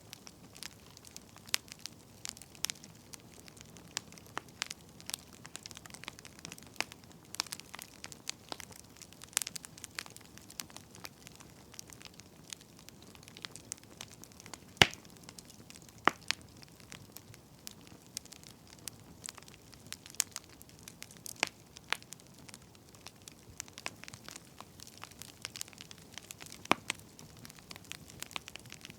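Wood fire crackling: irregular sharp pops and snaps over a faint low hiss, with one louder pop about halfway through.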